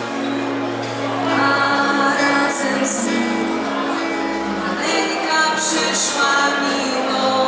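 Vocal ensemble singing a Polish Christmas carol (kolęda), long held notes with sung consonants in between.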